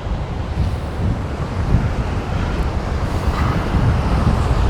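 Strong gusty wind buffeting the microphone in a deep, steady rumble, with surf breaking behind it; the rumble swells slightly near the end.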